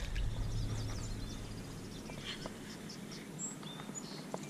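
Outdoor ambience with faint birds chirping in short high calls, over a low rumble that fades after the first two seconds and a few light clicks.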